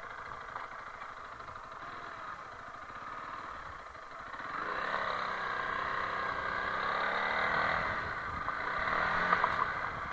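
Honda CRF300L Rally's single-cylinder four-stroke engine running at low revs, then opening up and climbing in pitch about halfway through as the bike accelerates. A few sharp knocks near the end.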